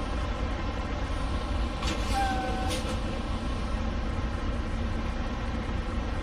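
Semi-truck diesel engine running steadily with a low rumble. About two seconds in, a short squeak lasts about half a second.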